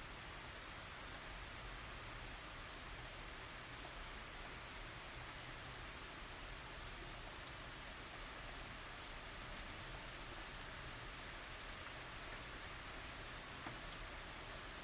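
Steady light tropical rain falling, with many small drop ticks on surfaces over an even hiss.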